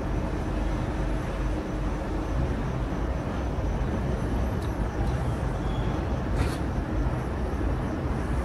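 Steady low rumble and hum of a passenger train at a station platform, with faint high chirps now and then.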